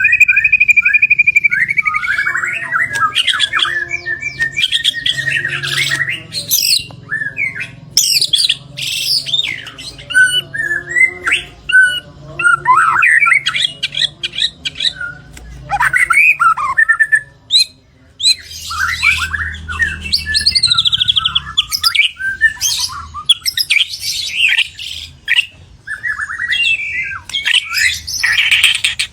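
A white-rumped shama (murai batu) singing a long, varied song of quick whistles, trills and rising and falling notes, pausing only briefly about two-thirds of the way through.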